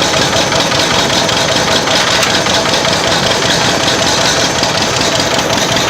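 Old tractor engine running steadily close up, with fast, even firing pulses and no let-up.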